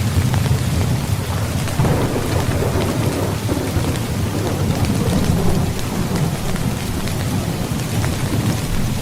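Heavy rain falling steadily with low rolling thunder rumbling underneath, the rumble swelling about two seconds in and again around five seconds.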